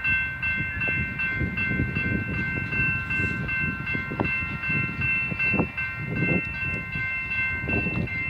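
Freight train rolling slowly past, with a steady high-pitched ringing tone running throughout. Gusts of wind buffet the microphone.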